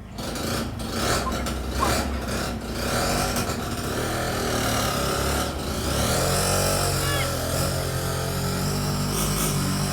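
A motor engine running steadily, its pitch shifting up and down a few times, with scattered clicks and some voices in the background.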